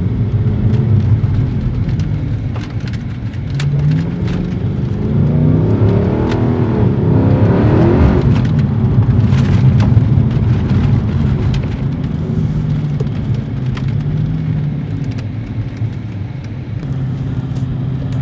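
Car engine under gradual acceleration. Its pitch rises twice, drops back at about eight seconds in, then settles into a steady cruising drone.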